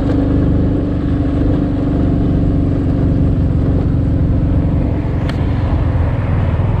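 Motorcycle engine running steadily under way, with road noise from the moving bike.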